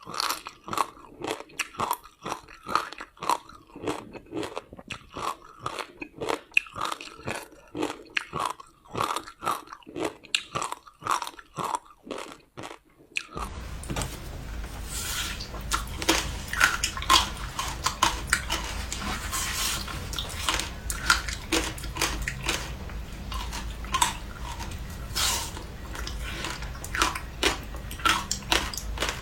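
Frozen ice with passion fruit and sesame seeds being bitten and chewed close to the microphone: rapid, crisp crunches several times a second. About 13 seconds in, a steady low hum comes up underneath and the crunches become sparser.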